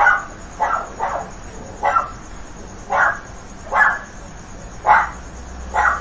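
A dog barking repeatedly, about eight short barks at roughly one-second intervals.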